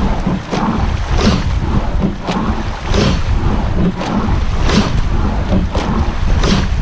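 Racing rowing shell under way at race pace: the oars knock in their gates about once a second with each catch and finish, over the rush of water along the hull and heavy wind noise on the microphone.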